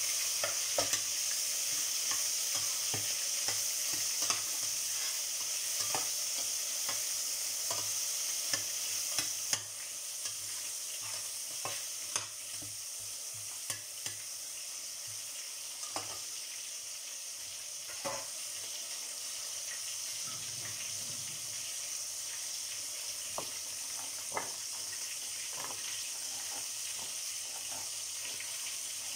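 Steady sizzling from onion, garlic, lemongrass and tomato sautéing in a stainless steel pot and milkfish frying in a pan, with a metal spatula scraping and knocking against the pot as it is stirred. The sizzle drops a little about ten seconds in.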